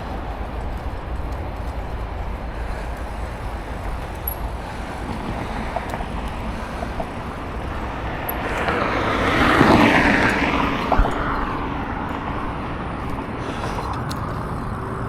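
Steady wind rumble on the microphone of a moving bicycle, with a motor vehicle passing that swells to its loudest about two-thirds of the way through and then fades.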